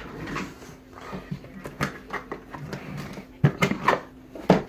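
Knocks and rustles of fireworks packages being handled and set down, the sharpest two near the end, over a faint steady hum that stops about three and a half seconds in.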